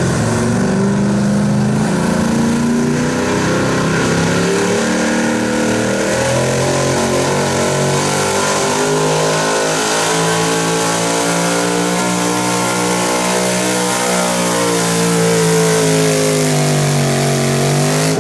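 Small-block modified 4x4 pulling truck's engine at full throttle, hauling the sled. The revs waver, dipping a few seconds in, climbing, sagging, then rising again near the end, before the sound cuts off suddenly.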